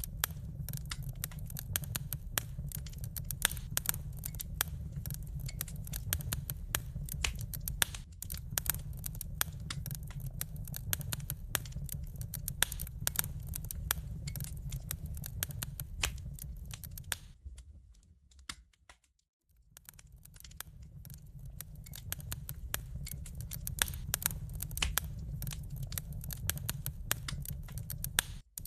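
Wood fire crackling and popping in a fireplace, dense irregular snaps over a low steady rumble of the flames. Just past the middle the sound fades almost to silence and swells back in a couple of seconds later.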